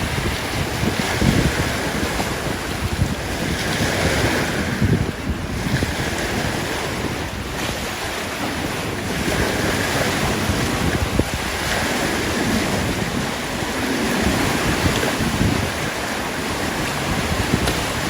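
A steady rush of wind and water, with gusts of wind buffeting the microphone in irregular low rumbles.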